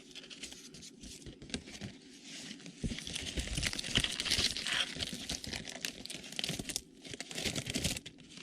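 Rustling and crinkling of a trading-card box and its wrapped packs being handled, with small knocks, as the packs are worked out of the cardboard box. It grows louder about three seconds in and eases off near the end.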